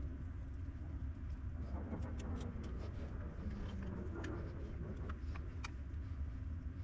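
Light clicks and taps of small parts being handled on a workbench, scattered through the middle few seconds, over a steady low hum.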